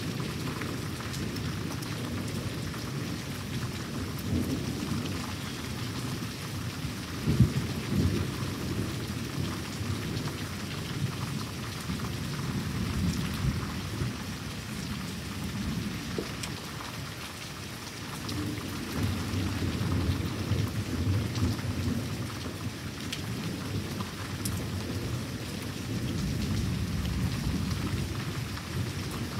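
Steady rain falling, with thunder rumbling and rolling repeatedly. A sharp clap about seven seconds in is the loudest moment.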